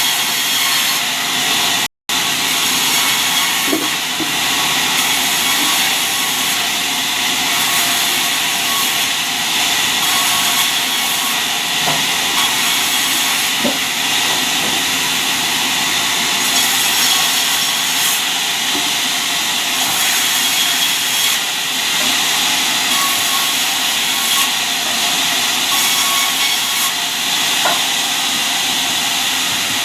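Sawmill saw running steadily through albasia wood, a continuous loud hissing cut, broken by a brief total dropout about two seconds in.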